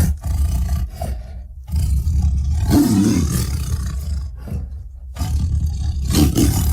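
Tyrannosaurus rex sound-effect roars: deep, rumbling roars one after another, a fresh roar swelling up about every two to three seconds with brief dips between.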